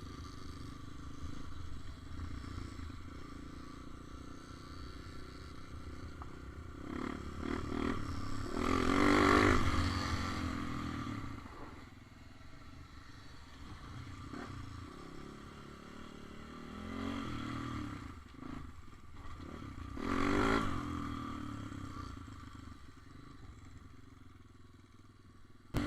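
Motorcycle engines running, with two louder swells, about a third of the way in and again about four-fifths of the way through.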